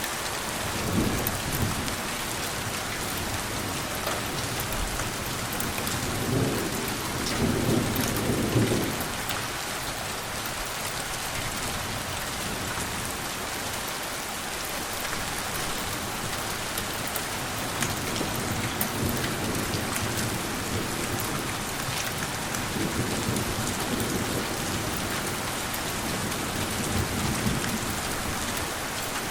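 Steady rain falling, with low rolls of distant thunder swelling up about a second in, again at about six to nine seconds, and more softly near the end.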